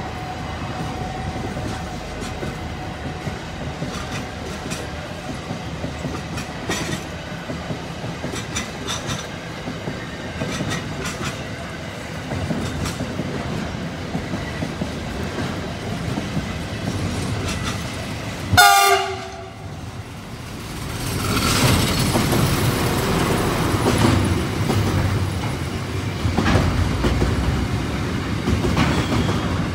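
Train running on the tracks with a steady rumble. About two-thirds through, a train horn gives one short, loud blast. Then a container freight train runs past, louder, its wheels clattering over the rails.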